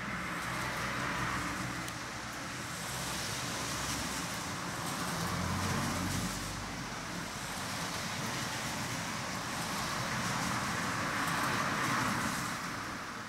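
Heavy rain falling, a steady rushing hiss that swells and fades several times, with a low rumble about six seconds in.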